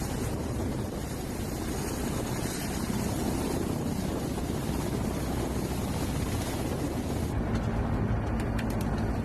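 Ka-52 attack helicopter's coaxial rotors and turbine engines running steadily, a loud rushing noise over a low hum. About seven and a half seconds in, the high hiss drops away and a few faint clicks come through.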